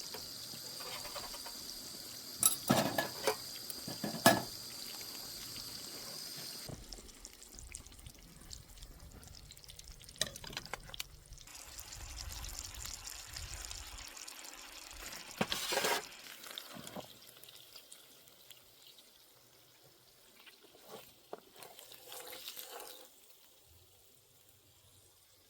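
Camp cooking: food sizzling in a pan as it is stirred, with sharp metal clinks of a utensil against the pan a few seconds in and more knocks and clatter later on.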